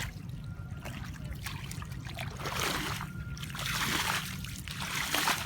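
Water splashing and trickling, with louder spells of splashing about two and a half seconds in and near the end.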